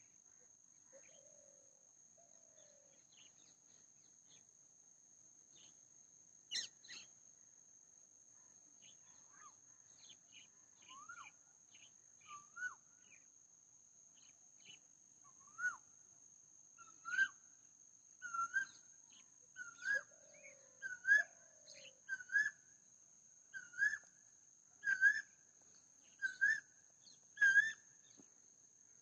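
A bird calling over a steady high insect drone. The bird's short rising notes come sparsely at first, then in the second half repeat about once a second and grow louder, with a few lower falling notes mixed in.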